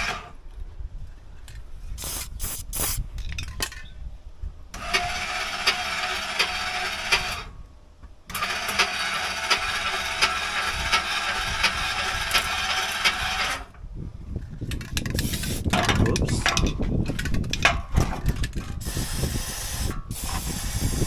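Fifth-wheel camper's landing gear being run twice by its drive, each time a steady whirring with a fine rapid rattle that starts and stops abruptly, its screw assembly freshly greased to cure a squeak. Scattered clanks come before and after.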